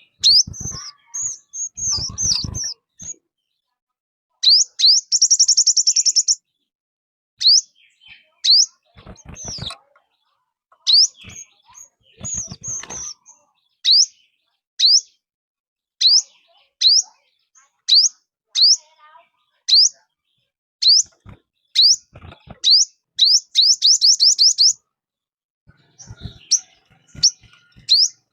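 Songbird known in Vietnam as the 'chim 5 màu' (five-colour bird), calling as a trapping lure. It gives a string of short, sharply rising whistled notes about once a second, broken twice by quick trilled runs. Lower, deeper sounds come in a few times underneath.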